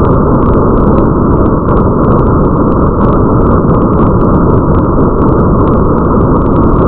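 Rain ambience: a loud, steady, deep rumble of rain noise with a dense scatter of faint small ticks of drops over it.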